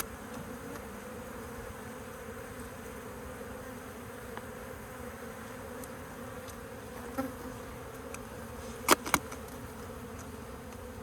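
Honeybee colony buzzing steadily around the opened hive. Two sharp knocks about nine seconds in.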